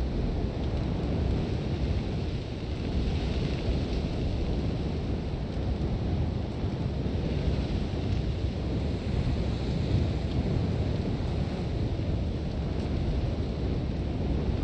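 Sandstorm wind blowing hard: a deep, continuous rumble under the hiss of wind-driven sand, the hiss swelling with gusts a couple of times.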